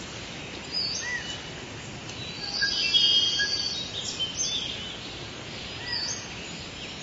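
Woodland birds singing and chirping over a steady background hiss, with short, high, gliding phrases; the song is busiest about three seconds in.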